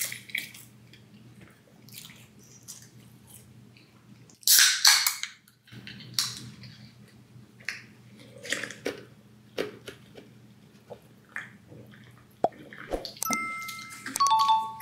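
Close-up chewing and wet mouth sounds of a person eating pizza, with one louder, noisier moment about four and a half seconds in. Near the end, a few short steady high tones step down in pitch.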